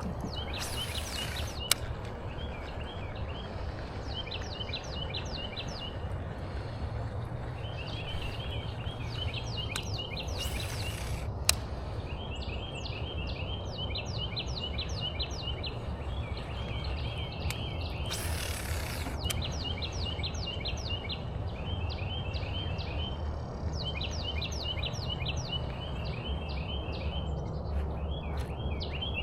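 A songbird singing a short, rapid trilled phrase over and over, every two to three seconds, over a steady low outdoor rumble, with a few brief rushes of noise in between.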